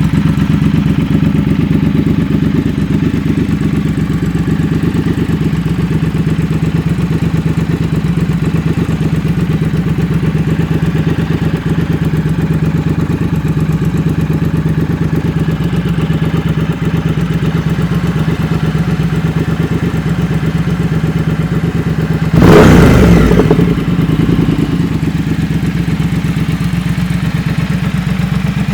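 Triumph Thruxton 1200 RS's 1200 cc parallel-twin engine idling steadily. One short, louder burst comes about three-quarters of the way through.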